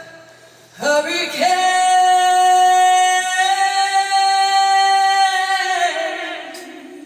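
Live singing from a band on stage: a short rising phrase, then one long held note that fades away about six seconds in.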